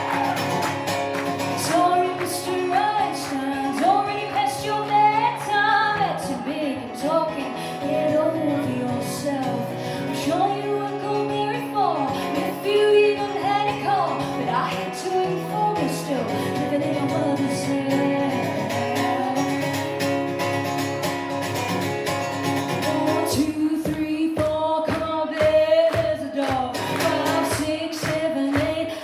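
Live band music with a woman singing lead over the band. Near the end the low backing thins out into separate, evenly spaced beats.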